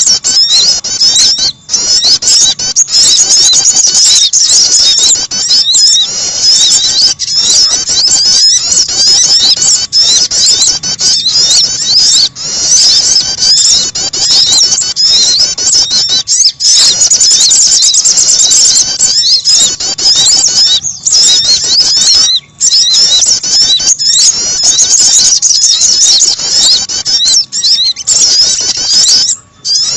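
Loud, dense, high-pitched chirping and twittering of small songbirds, calls packed together with no break except brief gaps every few seconds. It is a bird-trapping lure recording of sogon and prenjak calls, played to draw small birds in.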